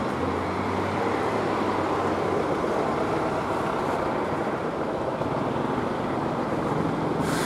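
Diesel multiple-unit passenger train approaching along the track: a steady rumble of its engine and wheels, with a low hum in the first couple of seconds. The noise turns brighter near the end.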